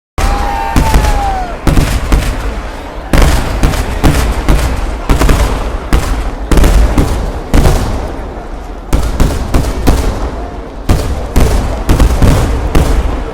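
Temple-festival fireworks (vedikettu) exploding in a rapid, irregular string of loud bangs, several a second, with a deep boom beneath them. A short falling whistle sounds near the start.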